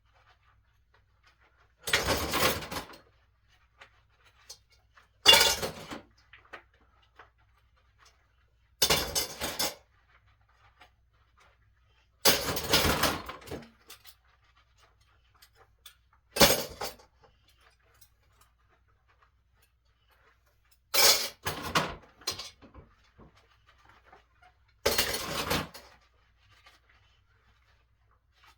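Washing dishes by hand at a kitchen sink: short bursts of rinsing and dish noise every three to four seconds, with quiet between.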